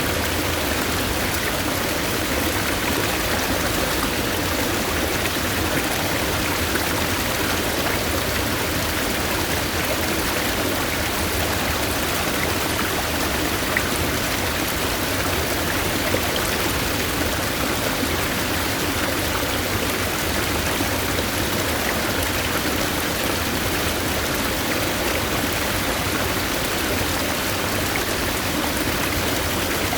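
Steady rush of flowing water from a forest stream, an even hiss with no breaks.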